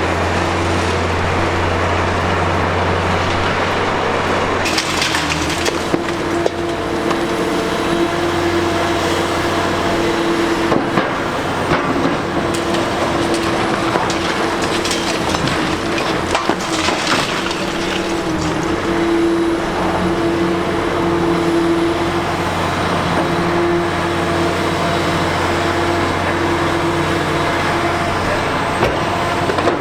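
Liebherr R 960 high-reach demolition excavator running steadily under load, with sharp cracks of concrete and debris breaking apart every few seconds.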